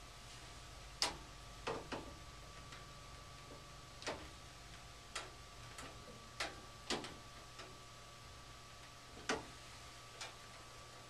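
Irregular sharp clicks and taps of a screwdriver on the screw terminals of a furnace control board as the low-voltage wiring connections are tightened, over a steady hum.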